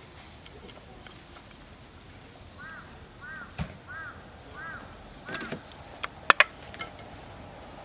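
A bird calling five times in a steady series, each call a short arched note, followed by a few sharp knocks, the loudest two close together about six seconds in.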